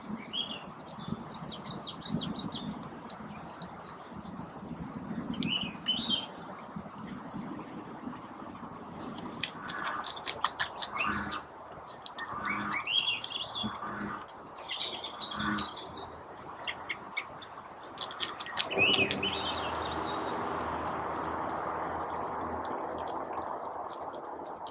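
Wild songbirds chirping and trilling, with several short calls overlapping and some sharp clicking notes. About three-quarters of the way in, a steady rushing noise starts and carries on under the birds.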